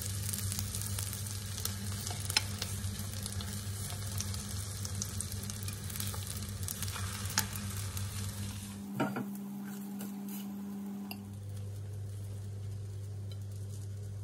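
Zucchini slices in flour-and-egg batter sizzling as they fry in vegetable oil in a pan, with a couple of sharp clicks. About nine seconds in, the sizzling stops and a steady low hum remains.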